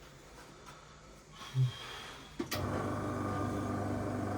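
Airbrush compressor switched on with a click about two and a half seconds in, then running with a steady hum. A brief low sound comes shortly before it starts.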